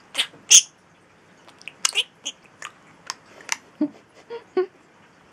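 Pet budgie calling: two loud, shrill calls just after the start, then a run of short chirps and clicks.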